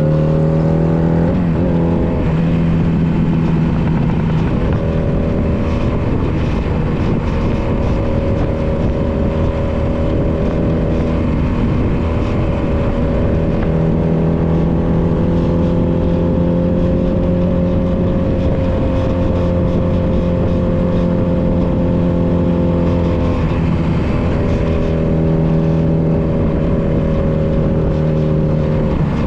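Honda Nighthawk 250's air-cooled parallel-twin engine running under way, with wind and road noise. The engine note holds steady for long stretches and shifts several times: near the start, about five seconds in, around twenty-four seconds in and again at the very end.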